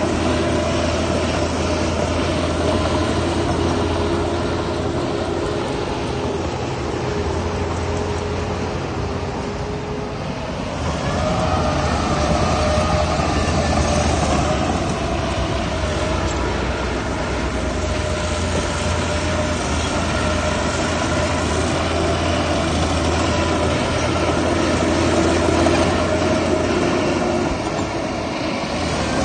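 Heavy diesel earthmoving machinery running steadily, a low engine drone with a few steady higher whining tones over it. It eases off slightly about ten seconds in and then picks up again.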